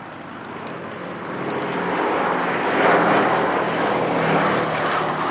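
Aircraft flying past at an airshow, its engine sound building to a peak about three seconds in and staying loud, with a steady low engine drone under it.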